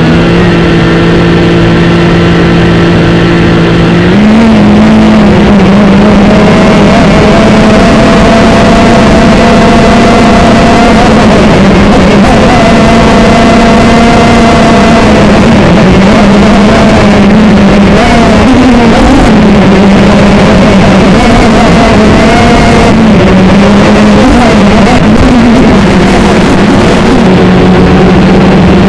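TBS Gemini multirotor's brushless motors and propellers running with a loud, steady whine. Its pitch steps up about four seconds in, then wavers up and down as the throttle changes.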